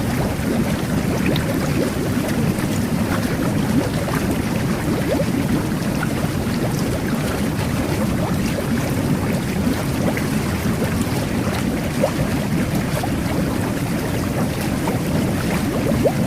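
Jet bath running: a steady churning of water and air bubbles from the jets, with a dense crackle of bubbles breaking at the surface.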